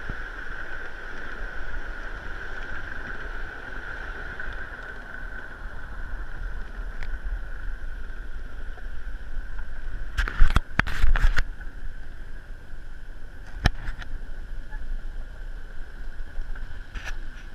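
Small railroad train rolling along its track: a steady rumble with a constant high whine, broken by a quick cluster of sharp knocks about ten seconds in and single clicks later on.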